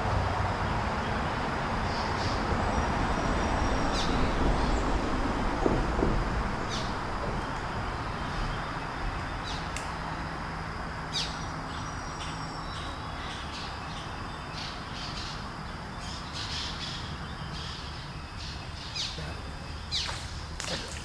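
Birds calling: short sharp chirps and squawks, scattered and more frequent in the second half, over a steady rushing background with a low hum that fades slowly.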